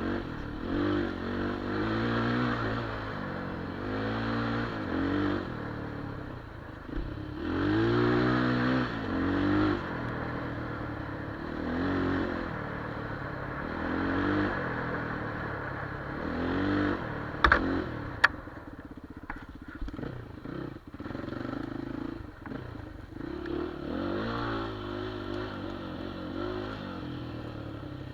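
Enduro motorcycle engine revving up and down over and over, its pitch swelling and falling every second or two as the throttle is worked. There are a couple of sharp knocks about 17 to 18 seconds in.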